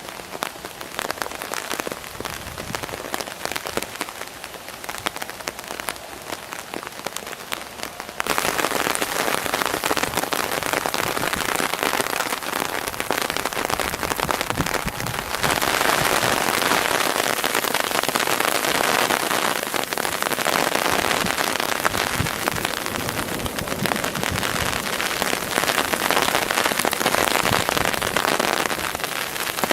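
Heavy rain falling on a surface, a dense steady hiss of drops that steps up abruptly in loudness about eight seconds in and again around fifteen seconds.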